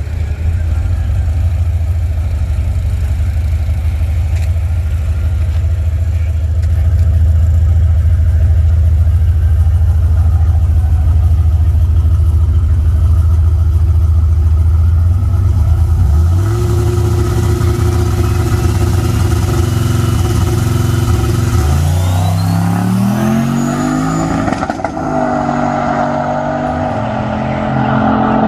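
Street truck engine running with a deep low rumble, then accelerating hard with its pitch climbing in several steps from just past halfway, and a thin high whine rising alongside it.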